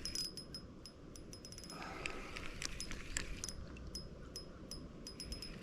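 Fishing reel being cranked, with light, irregular clicking, while a hooked fish is reeled in.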